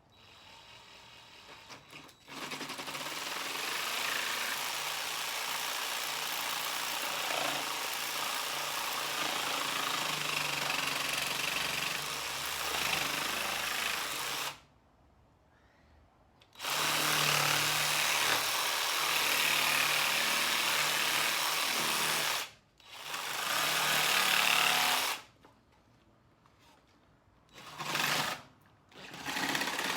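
Jigsaw cutting through a scrap 2x4, running in a long stretch of about twelve seconds, then about six, then shorter bursts with brief stops between them.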